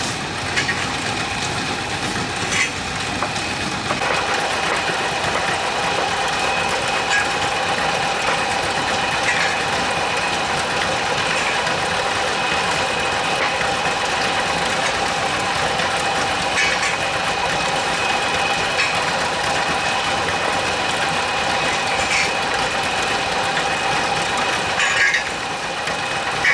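An engine running steadily at constant speed, with a steady whine over it and a few scattered clicks.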